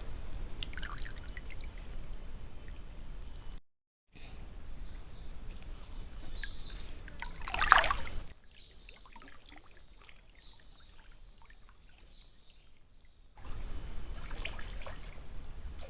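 River water trickling and splashing, under a steady high-pitched insect drone. About halfway through there is a brief, louder rush of water.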